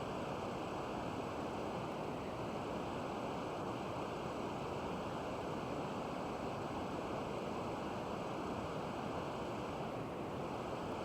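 Steady, even hiss-like noise that does not change, with no speech or music.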